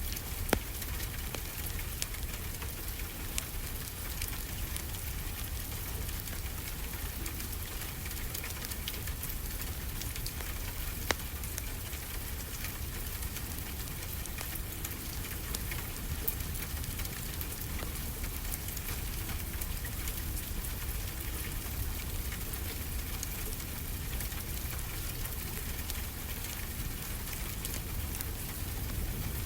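Wood fire crackling with scattered fine clicks and a few louder pops, over a steady low rush of ocean surf.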